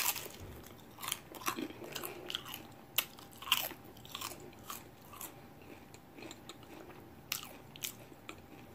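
A person biting and chewing crisp fried tortilla pieces, with irregular crunches, the sharpest right at the start.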